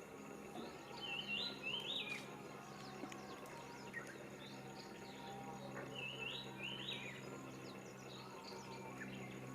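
Small songbirds singing: one bird repeats a short, stepped, rising phrase twice, about five seconds apart, among fainter chirps from other birds, over a steady low hum.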